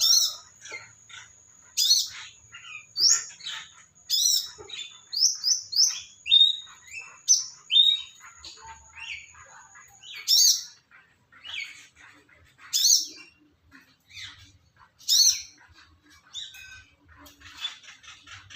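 A bird singing: loud, sharp chirps about every two seconds, with quicker, softer chirps in between, and a faint steady high whine under the first half.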